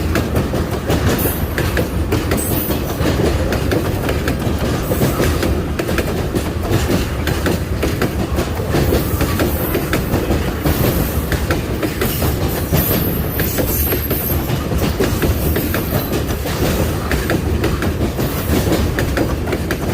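Train wagons rolling along the track in a steady rumble, with wheels clicking over rail joints and brief high wheel squeals now and then.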